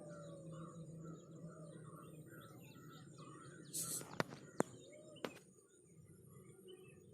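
Small birds chirping faintly with many short, repeated calls. About four seconds in there is a brief hiss, followed by three sharp clicks over the next second or so.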